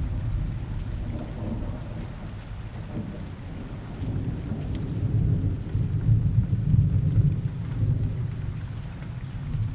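Rain falling steadily with low rolling thunder that swells about halfway through and eases off near the end.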